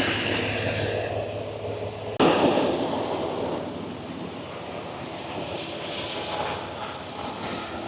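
Semi truck's diesel engine idling with a steady low hum. About two seconds in, a sudden rushing noise starts and fades over a second or two.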